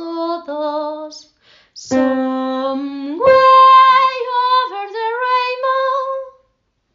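A woman singing a short song melody. About halfway through it holds a low note and then leaps up an octave, sung as the example of an ascending perfect octave.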